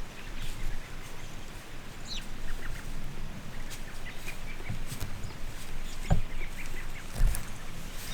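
Faint, scattered chirps of small birds, with a few dull low thumps a little before five, about six and about seven seconds in.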